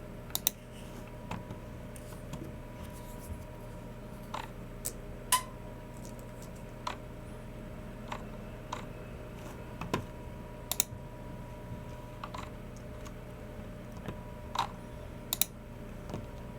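Unhurried, irregular keystrokes on a Logicool MX Keys Mini low-profile keyboard, mixed with clicks of a Logicool G304 mouse: single sharp clicks a second or so apart, some in quick pairs, over a steady low hum.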